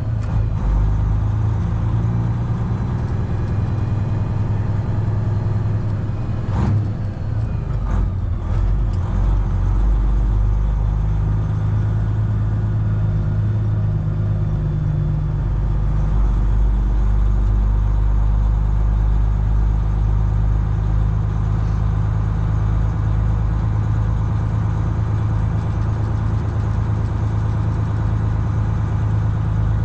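Detroit Diesel 12.7-litre engine of a loaded Freightliner Classic XL semi truck running steadily as the truck pulls away, with a couple of brief clicks about seven and nine seconds in.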